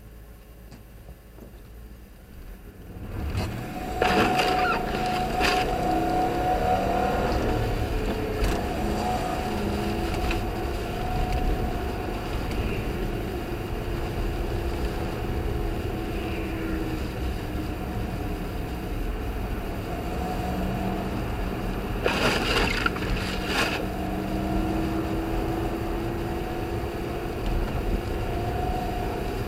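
Audi quattro on the move: engine and tyre noise come in about three seconds in and run on loudly, the engine's pitch rising and falling as it accelerates and eases off. A few short knocks cut through now and then.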